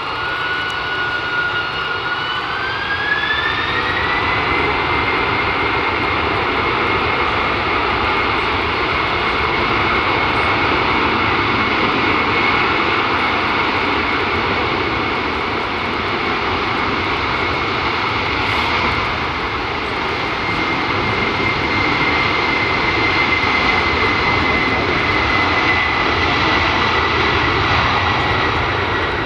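Boeing 767-300 freighter's jet engines spooling up for takeoff: a whine rises in pitch over the first few seconds, then holds steady above a loud, broad roar.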